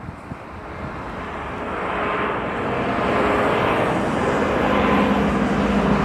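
Jet airliner's engines growing steadily louder as the aircraft approaches and passes close, a rising rush of noise with a steady hum and whine in it.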